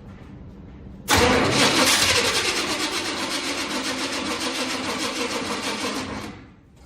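Starter motor cranking the 1978 Chevy truck's engine for about five seconds without it catching, with a fast, even chugging, then stopping. The cranking sounds weak from an unhealthy battery, and the engine is not getting fuel to its filter.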